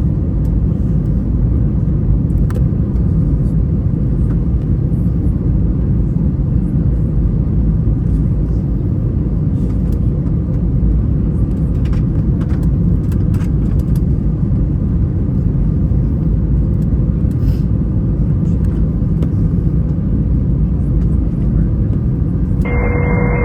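Airbus A321 cabin noise heard from a rear window seat: a steady, loud rumble of the engines and airflow, with a few faint clicks partway through. Just before the end a radio transmission from the tower cuts in.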